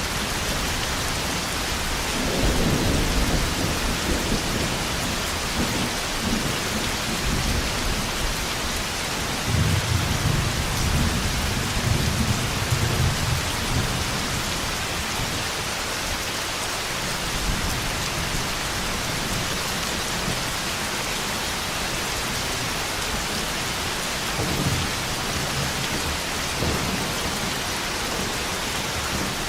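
Heavy steady rain with rolls of thunder: a low rumble about two seconds in, a longer, louder one about ten seconds in, and fainter rumbles near the end.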